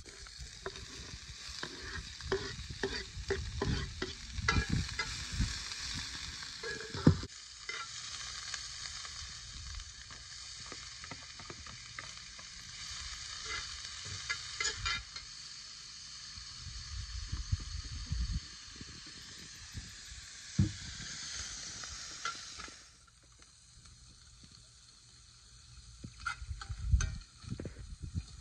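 Onions, green peppers and flaked cod sizzling in a cast-iron skillet while a metal slotted spoon stirs them, scraping and clicking against the pan. About 23 seconds in the sizzle dies down, and a few louder knocks of the spoon on the pan follow near the end.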